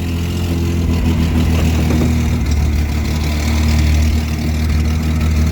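Old truck's engine running steadily at a low, even speed, growing a little louder around four seconds in.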